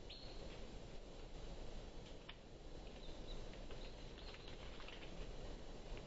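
Small birds chirping at a bird feeder: short, high chirps scattered through, coming more often in the second half, with a few sharp clicks over a steady background hiss.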